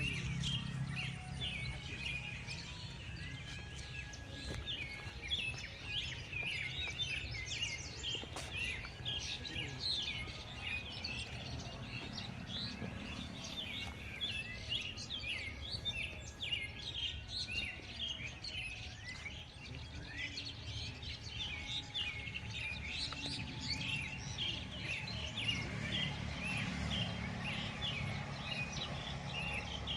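Many birds chirping at once, a dense chorus of short, quick overlapping chirps, with a low steady rumble underneath.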